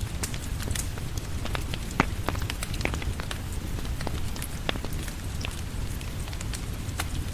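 Steady rain with a low rumble, mixed with a crackling wood fire: scattered sharp pops and ticks throughout, the loudest about two seconds in.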